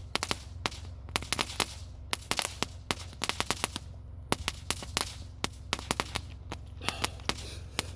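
Fireworks or firecrackers going off in quick, irregular clusters of sharp pops, over a steady low hum.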